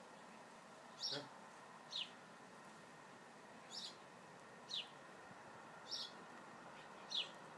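A small bird calling repeatedly: a short, high note that falls in pitch, given six times at roughly one-second intervals, over a faint steady outdoor hiss.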